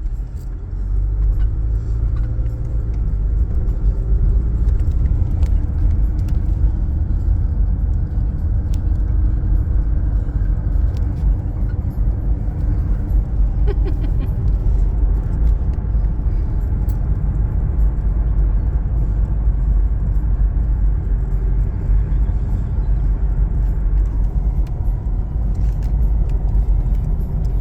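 Steady low rumble of wind buffeting the microphone during a bicycle ride, with road noise underneath.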